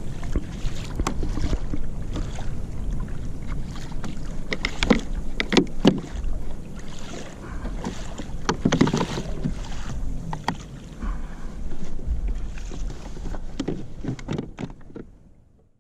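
Sounds of a kayak on the water: a steady low rumble of wind and water with scattered knocks, clicks and splashes. The sound fades out near the end.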